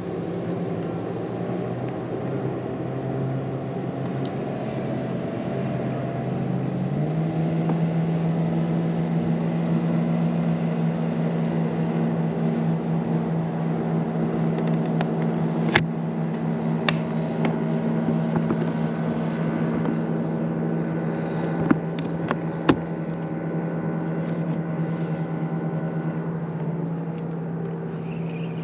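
Boat motor running steadily, stepping up to a higher pitch about seven seconds in and holding there. A few sharp clicks come through in the second half.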